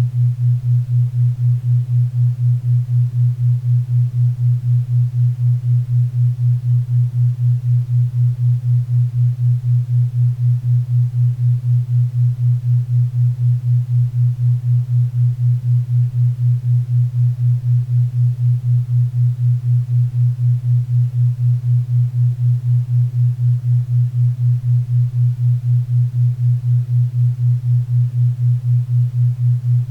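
4 Hz theta-wave entrainment tone: a low, hum-like tone pulsing evenly about four times a second, over faint pink and brown noise.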